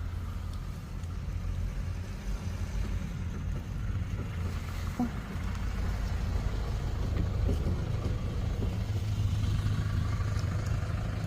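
Steady low rumble of a motor vehicle's engine running, growing a little louder in the second half, with one brief click about halfway through.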